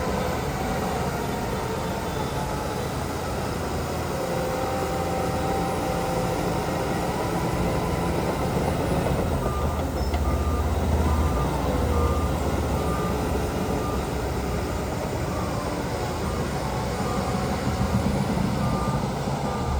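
Diesel engines of heavy earthmoving machinery (a Shantui bulldozer and dump trucks) running steadily under load. About halfway through, a reversing alarm starts, a row of short, evenly spaced beeps at one pitch that goes on to near the end.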